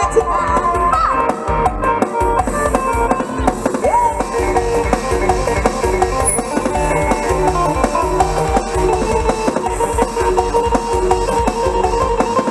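Mor lam sing band playing an instrumental passage: drum kit keeping a fast, steady beat under sustained melody lines and plucked-string parts.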